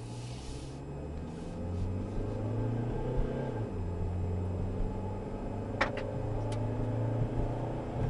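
A Nissan Sentra's 1.8-litre four-cylinder engine pulling under acceleration, heard from inside the car. The engine note climbs, then drops as the automatic transmission upshifts, twice: the shifts are clean, with no slippage. There are two short clicks near the end.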